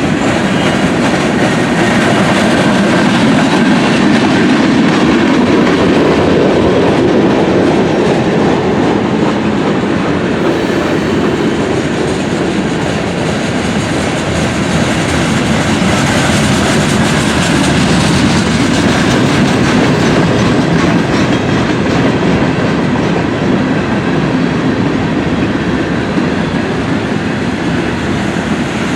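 Railroad cars rolling past at steady speed, wheels clacking over the rail joints with a continuous rumble.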